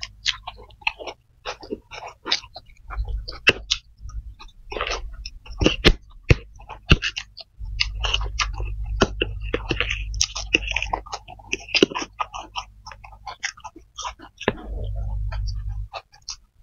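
Close-miked mukbang eating sounds: chewing, lip smacks and slurps on spicy fried flat rice noodles (kuetiau), with many short, sharp, irregular clicks. A low rumble comes and goes in stretches.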